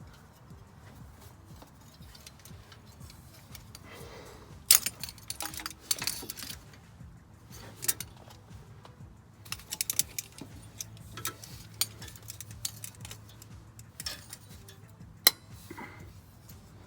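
Metal hand tools clinking and rattling against metal parts: sharp clicks in irregular clusters, starting about four seconds in after a quiet stretch.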